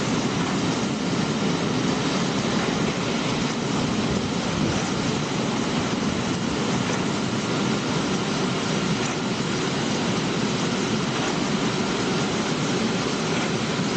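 Bubble-type vegetable washing machine running: air bubbling through its water tank and the machine's motor make a steady rushing noise.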